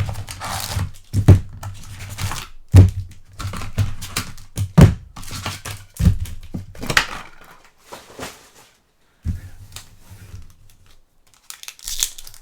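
Plastic wrapping on a trading-card hobby box crinkling and tearing as it is opened, with a few sharp knocks of the cardboard box being handled. The handling thins out to occasional rustles after about eight seconds.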